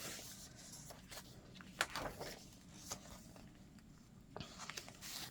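Faint rustling and soft ticks of a chunky fabric-and-paper junk journal's pages being turned and handled, in short scattered swishes.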